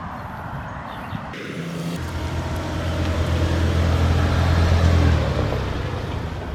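Car engine approaching and pulling up: its low hum grows louder for a few seconds, then drops away near the end.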